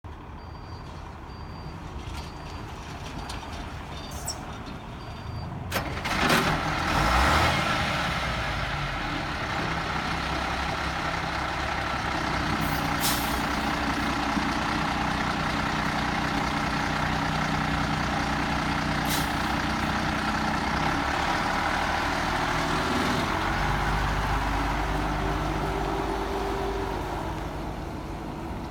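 A 1995 International 4900 truck's diesel engine: a run of short high beeps, then about six seconds in the engine starts with a loud noisy surge and settles into steady running, its note shifting slightly near the end.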